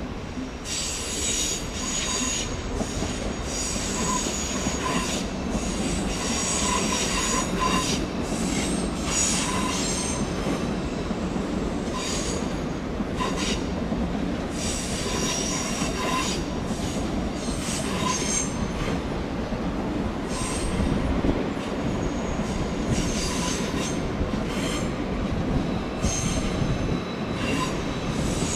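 DB ICE train rolling slowly past on curved track, the wheels running with a steady rumble. Over it the wheel flanges squeal, high-pitched, in squeals that keep coming and going.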